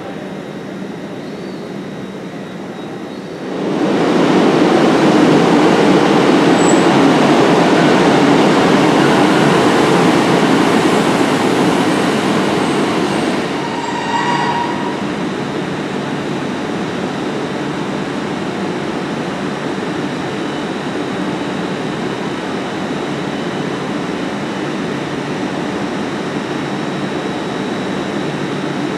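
Railway train noise: a loud, steady rumble begins abruptly about four seconds in and runs until about fourteen seconds. A short high squeal follows, then a steadier, quieter train rumble as a TransPennine Express Class 185 diesel multiple unit runs into the platform.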